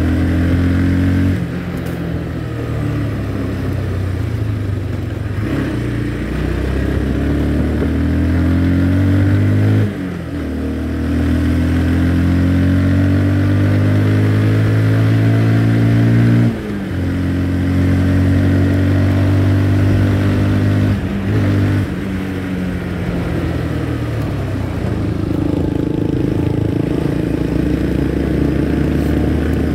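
Motorcycle engine running under way, its pitch climbing slowly as it pulls, then dropping suddenly about four times (near 1.5, 10, 16.5 and 21 seconds in) with a brief dip in level, like gear changes.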